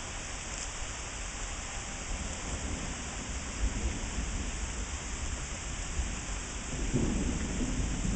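Steady rain falling in a thunderstorm, an even hiss throughout, with a low rumble of thunder building and growing louder about seven seconds in.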